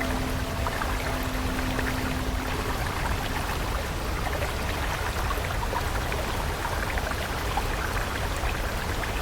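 Stream water running steadily, with small trickling drips. A soft, held musical tone sounds over it in the first three seconds or so.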